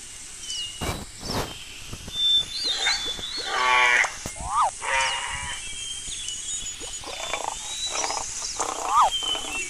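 A mix of short animal calls: a quick rising-and-falling chirp heard twice, a longer call with a strong pitch about halfway through, and small high whistles and clicks in between.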